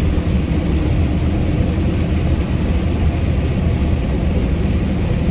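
Box truck being driven on a wet road, heard from inside the cab: a steady low engine and road drone with an even hiss of tyres and rain over it.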